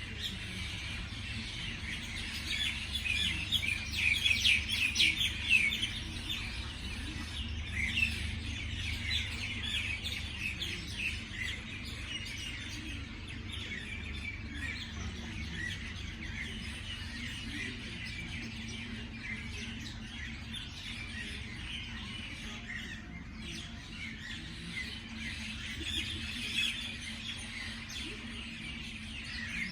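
Many small birds chirping together in a dense morning chorus of short, quick calls, busiest a few seconds in and again near the end. A steady low hum runs underneath.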